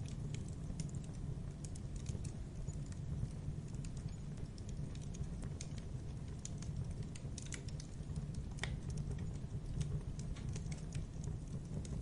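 Wood fire burning in a fireplace, with a steady low rumble and irregular sharp crackles and pops.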